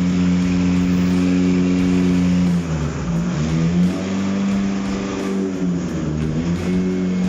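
Toyota 1ZZ-FE 1.8-litre four-cylinder petrol engine running on a test stand at raised revs, checked as a used engine. About three seconds in, and again around six seconds, the revs drop and climb back up.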